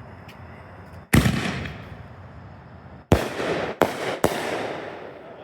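Triple-break aerial firework shell fired from a mortar tube: a sharp launch bang about a second in, then, about two seconds later, three sharp breaks in quick succession, each echoing away.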